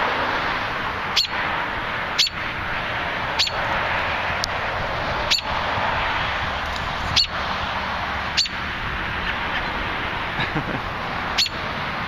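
A nesting parent bird giving short, sharp alarm calls about every second or two, the alarm of a bird disturbed at its nest, over steady background noise.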